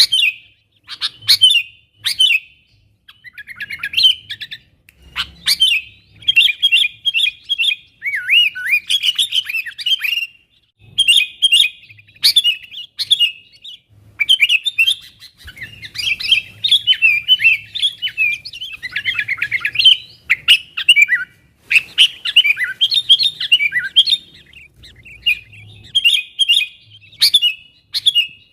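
Sooty-headed bulbul calling vigorously: loud bursts of quick, bubbling chirps and short slurred phrases, repeated with brief pauses between them.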